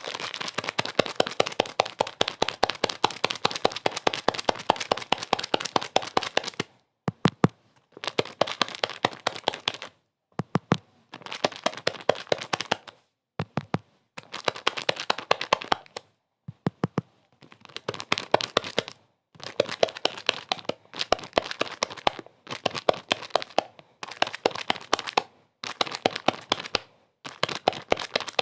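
Dense crackling made of rapid sharp clicks, in bursts of one to several seconds broken by abrupt short silences; the first burst is the longest.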